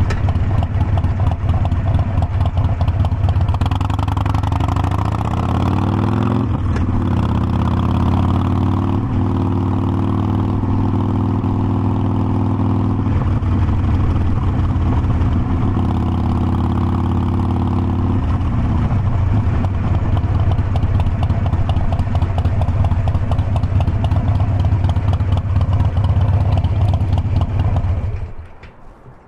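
Harley-Davidson Forty-Eight Sportster's air-cooled V-twin running under way. Its note climbs about a fifth of the way in, holds steady, drops to a lower note about two-thirds in, and stops abruptly near the end.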